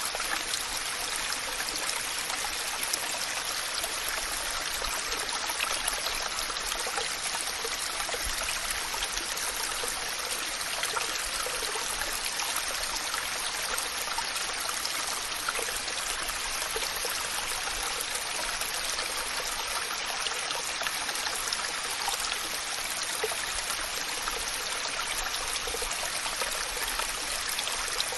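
Waterfall: water falling and splashing in a steady, even rush, mostly high in pitch with little deep rumble.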